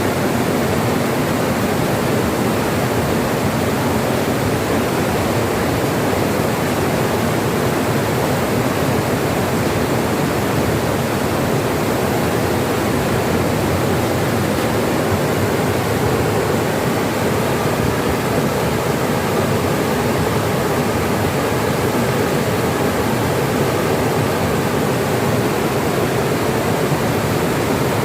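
Steady rushing water of a stream running over rocks, even and unbroken.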